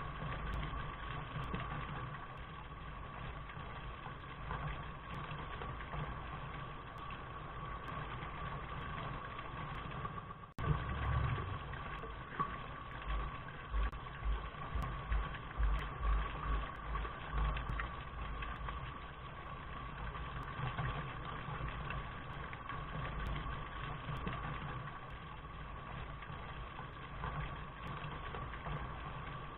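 Steady rain noise with a low rumble underneath. The sound breaks off for an instant about ten seconds in, then carries on, and for a few seconds afterwards the rumble swells in uneven low thumps.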